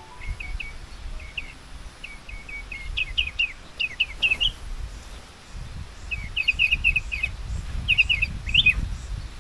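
Small birds calling in quick runs of short, high chirps, with a low rumble underneath.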